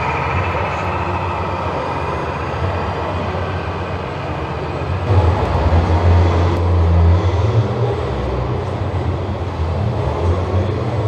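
Steady mechanical running noise with a low hum that grows louder about five seconds in and then rises and falls in steps.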